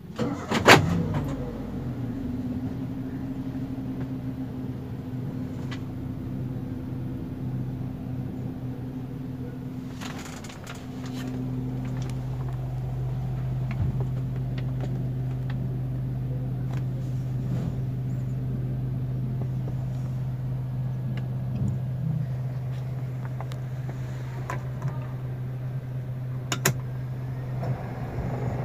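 Droning, rumbling hum inside the cabin of a Toyota Rush that is stopped with its engine idling: the unwanted cabin drone that the owner is tracing. The hum is steady, and about ten seconds in it deepens and grows stronger. A loud sharp knock comes about a second in, and fainter clicks come later.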